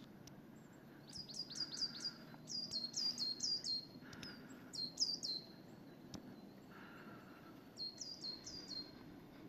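A tit singing: four runs of quick, high whistled notes, each falling in pitch, about five notes a second, with pauses between runs, over a steady low outdoor rumble.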